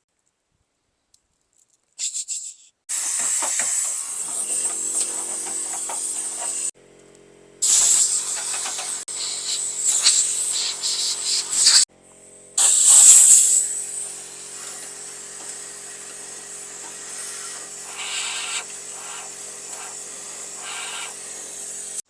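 Bursts of compressed air hissing from a blowgun, blowing a mouse nest out of a truck tailgate, with short breaks between blasts. A steady motor hum runs underneath from about four seconds in.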